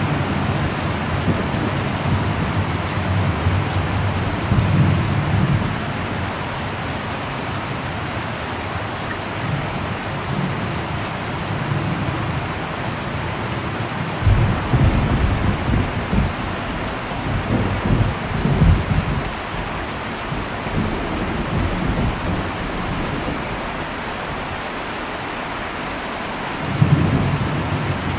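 Heavy rain falling on an old metal roof, a steady hiss, with low rolls of thunder: a short one about five seconds in, a longer roll from about halfway through lasting several seconds, and another starting near the end.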